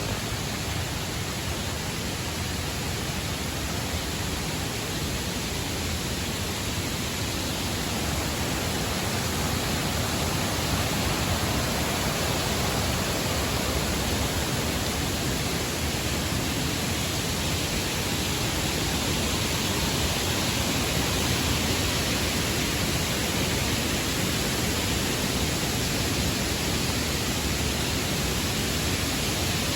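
Steady rush of a waterfall: an even, full roar of falling water that grows a little louder several seconds in.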